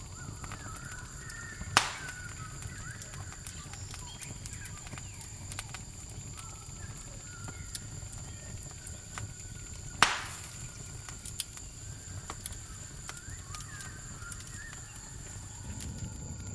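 Campfire burning with a low steady rumble and frequent small crackles, and two sharp loud pops, about two seconds in and again about ten seconds in. A steady high cricket trill runs underneath.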